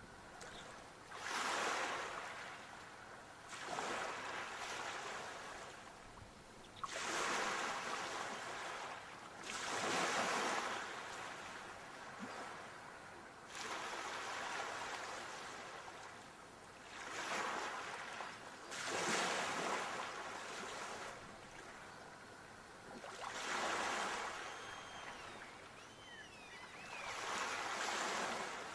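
Sea waves breaking and washing up the shore, the surf swelling and falling away in repeated surges every few seconds.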